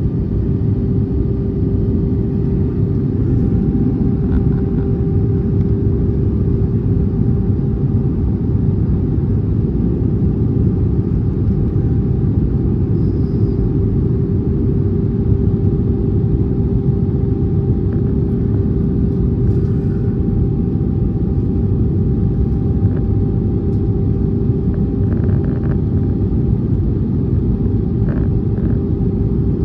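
Airbus A320neo cabin noise in flight: a steady rumble of engines and airflow, with one held hum over it.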